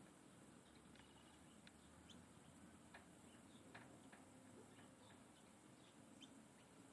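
Faint, scattered short bird chirps, a few seconds apart, over a low steady hiss.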